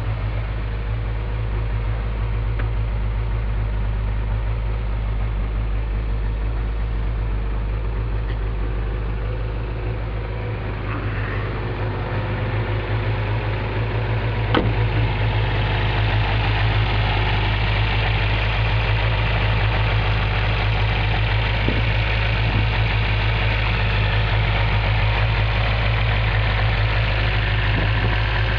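Toyota MR2's 1.6-litre 4A-GE twin-cam four-cylinder, with mild Crow cams, idling steadily through headers and a Magnaflow XL muffler. It grows louder and brighter about halfway through, after a single click.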